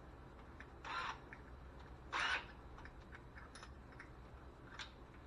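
Faint scattered clicks and ticks from hands and tools at work, with two brief scraping noises about one and two seconds in.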